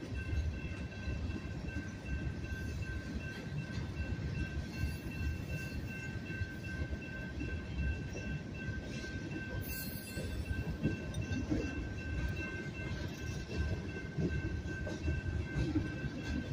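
Freight train's covered hopper cars rolling slowly over a grade crossing, their wheels and couplers giving a low rumble with scattered clanks. A grade-crossing warning bell rings steadily over it, with a brief high screech about ten seconds in.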